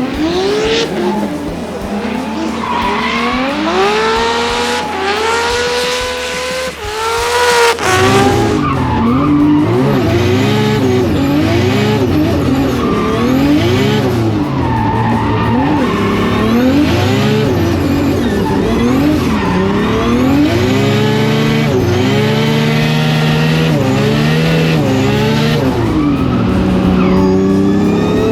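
Nissan Skyline R32's billet RB28 straight-six revving hard, climbing through several quick gear changes over the first eight seconds or so, then revs rising and falling rapidly over and over with tyre squeal as the car drifts.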